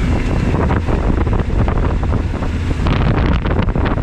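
Wind rushing over the camera microphone on a moving motorcycle, a steady low rumble mixed with road and engine noise; a brighter hiss comes in about three seconds in.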